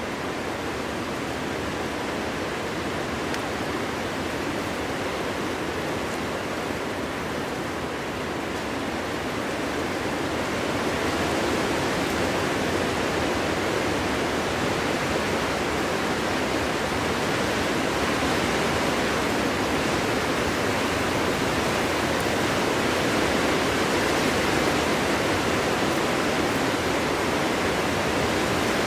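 Steady wind blowing through a forest, an even rushing noise that swells a little louder about ten seconds in.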